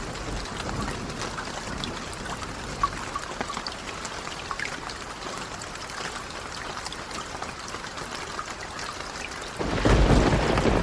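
Steady rain falling, with scattered light crackles and drips. Near the end a low rumble of thunder swells in and becomes the loudest sound.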